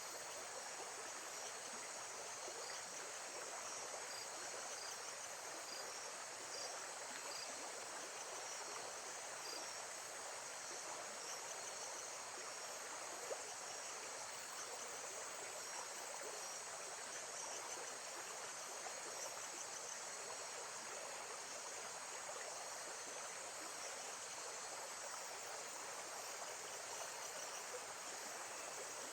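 Steady running water in a nature-sound recording, an even rushing hiss with no break. Faint high chirps of insects sound now and then above it.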